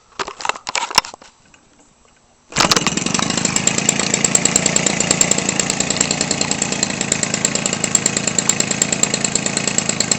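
Weed Eater Featherlite 21 cc two-stroke engine swinging a Master Airscrew 18x6 propeller, hand-started: a few knocks first, then it fires about two and a half seconds in and runs steadily through a muffler with its screen removed.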